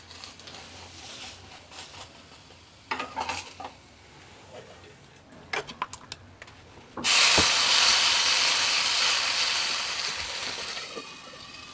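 Utensils clinking and scraping against a pan, then a loud sizzle from a hot oiled tawa starts suddenly about seven seconds in and slowly dies away.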